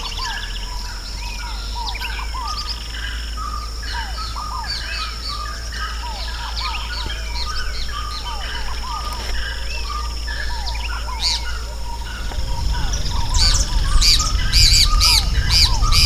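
A chorus of many birds calling and chirping together over a steady high tone. Near the end a low rumble comes in and a loud, harsh call repeats about twice a second.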